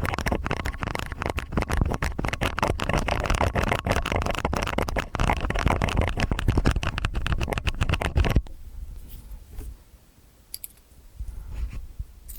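Stainless steel ear picks scraping and scratching in both ears at once, a dense run of quick scratchy clicks. About eight seconds in it stops abruptly, leaving only a few faint, scattered scrapes.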